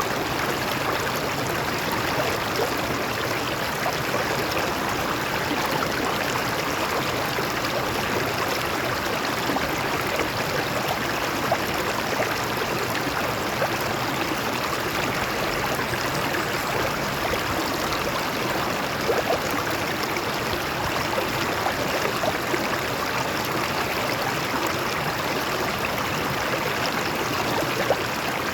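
Stream water flowing steadily over rocks, a constant rushing with some gurgling.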